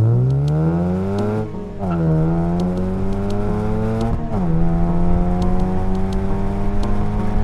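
Honda Civic Si's 2.4-litre four-cylinder engine pulling hard through its manual gears: the revs climb, drop at an upshift about a second and a half in, climb again more slowly, drop at a second upshift about four seconds in, then hold steady.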